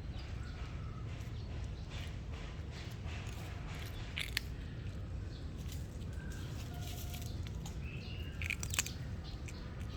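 Cats eating, with a couple of sharp chewing clicks over a steady low rumble. Faint short high chirps come and go.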